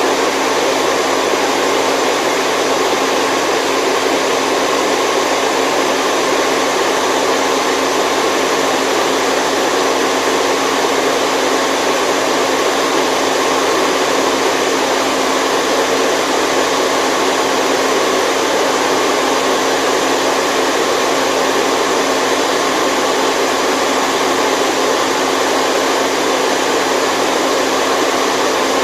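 Steady white noise played as a baby sleep sound: a constant, unchanging hiss with almost no low rumble.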